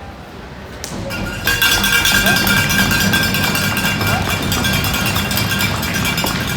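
Spectators cheering with a metallic noisemaker clanging rapidly. It starts suddenly about a second and a half in and stays loud.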